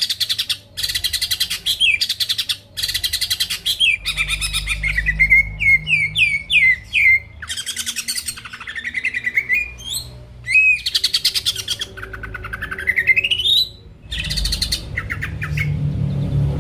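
Cucak ijo (green leafbird) singing hard: a varied, loud song of rapid buzzy trills of about a second each, alternating with short slurred whistles, and a long rising whistle about thirteen seconds in. It is the kind of full song kept birds are played to provoke them into singing.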